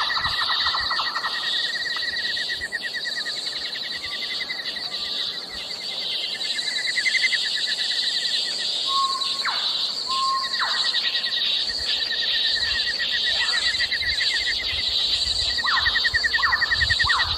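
A steady outdoor chorus of rapid trilling calls in two layers, one high and one lower, with a few short sweeping calls about halfway through and again near the end.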